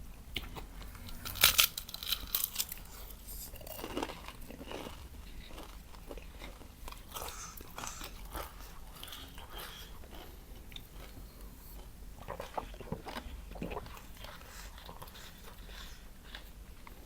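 A person biting and chewing crunchy food: a burst of loud crunches about a second and a half in, then quieter chewing with scattered crunches.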